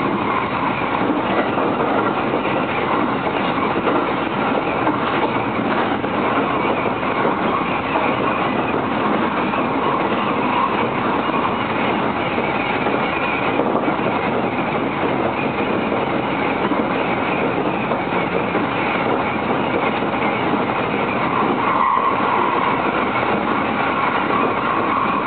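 Electric commuter train on the JR East Narita Line running at speed, heard from inside the carriage: a steady running noise of the train on the rails.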